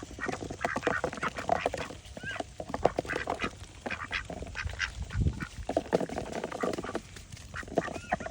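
Ducks quacking while they feed, a busy run of short quacks and clicks from their bills.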